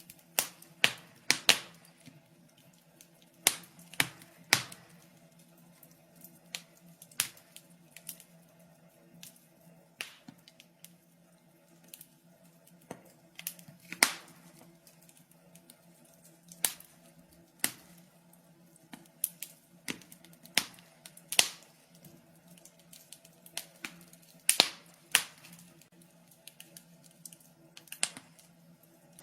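Wood fire crackling: irregular sharp pops and snaps, several clusters of them, over a faint low hum.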